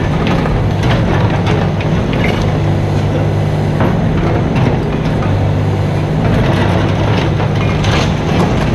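Mini excavator's diesel engine running steadily, its note shifting a little a few times, with frequent clanks and knocks from the machine at work.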